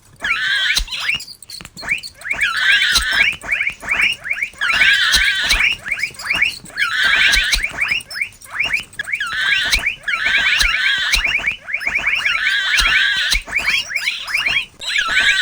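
Mouse squeaking sound effects: rapid runs of short, high-pitched squeaks that come in bursts about every two seconds, mixed with sharp clicks.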